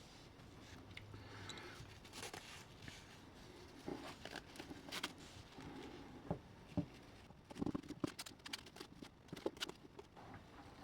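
Faint, irregular small clicks, taps and short scrapes of hands working on small parts, busiest about two thirds of the way through.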